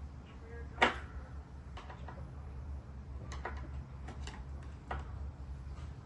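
Scattered clicks and light taps, one sharper click about a second in, over a low steady hum.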